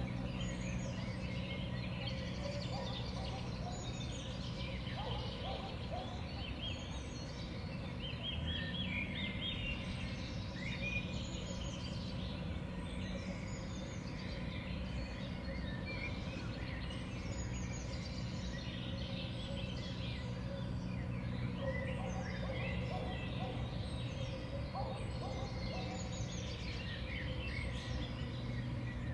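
Many small songbirds chirping and calling at a winter feeder, a busy overlapping chatter of short notes throughout.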